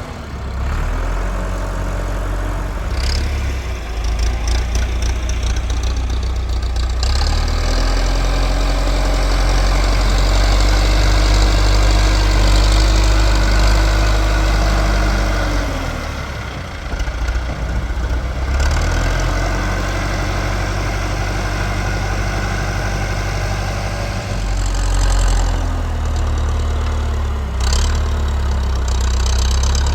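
Tractor engine running continuously, its speed rising, holding and dropping back several times as it works.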